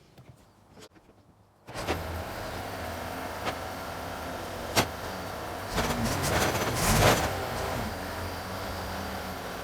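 Quiet at first, then an engine running steadily starts up abruptly, with a few knocks and a brief rise in revs about five seconds in.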